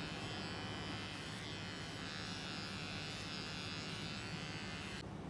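Electric hair clippers buzzing steadily while trimming a cat's fur. The higher part of the buzz stops abruptly near the end.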